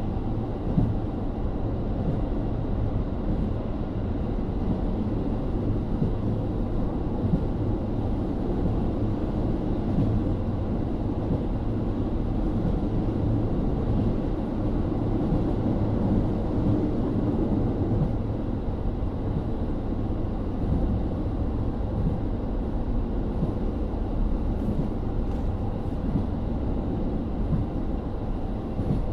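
KiHa 40 diesel railcar, with its N-DMF13HZB diesel engine, running steadily along the line, heard from inside the car: a continuous low engine drone under wheel-and-rail rumble.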